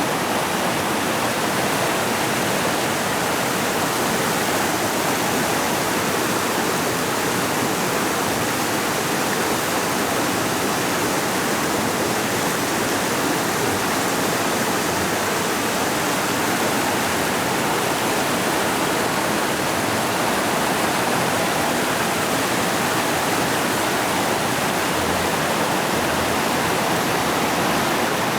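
Forest creek rushing over rocks in a steady, even rush of water.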